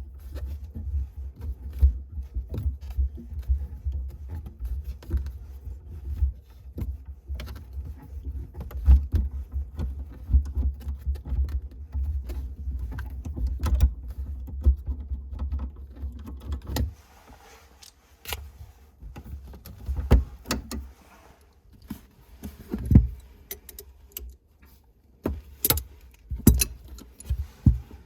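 Metal clinks and knocks of hand tools and faucet fittings being handled during washbasin faucet replacement work, over a low handling rumble for the first two thirds, then sparser, sharper knocks.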